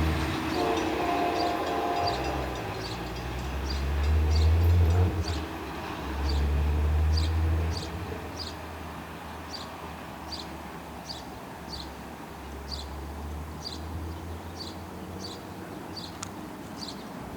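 Long Island Rail Road passenger train with EMD DM30AC diesel locomotives running past: a heavy low diesel and wheel rumble swells twice, then eases after about 8 seconds into a softer rumble as the train moves away. A regular high ticking, about two a second, runs through most of it.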